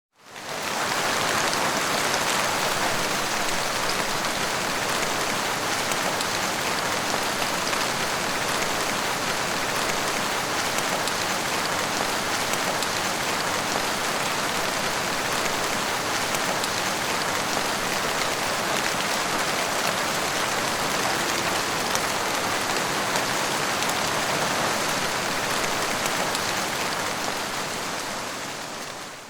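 Steady rain falling, an even hiss of many fine drops pattering. It fades in at the start and fades out at the end.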